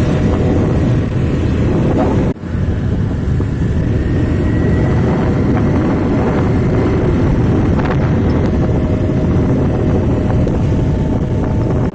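Heavy road traffic of trucks running past, a loud, steady low rumble, with wind buffeting the microphone.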